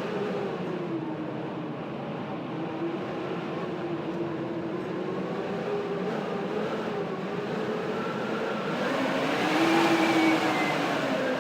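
Blizzard wind howling, with whistling tones that slide slowly up and down. A gust swells louder about nine seconds in and eases off near the end.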